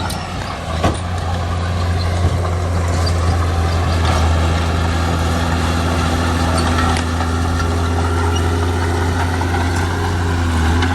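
Heavy diesel engine of construction machinery running steadily under load, with a couple of sharp metallic clanks near the start.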